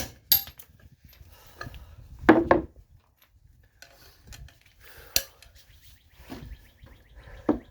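Scattered clicks, knocks and scrapes of hand tools and metal parts being handled while working on a car's front suspension bolts. A few sharp knocks stand out, the loudest about two seconds in.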